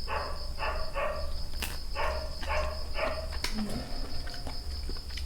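A dog barking over and over, about two barks a second, with a steady high thin whine underneath.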